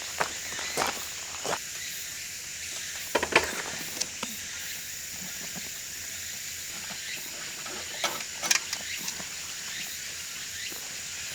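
A few scattered footsteps crunching on the forest road's gravel and leaf litter, the loudest about three seconds in and a short cluster near the end, over a steady high-pitched hiss.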